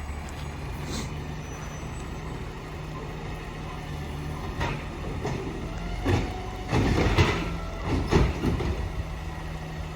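Garbage truck engine running steadily. In the second half come several loud thuds and clatters, the loudest a cluster about seven seconds in and another a second later.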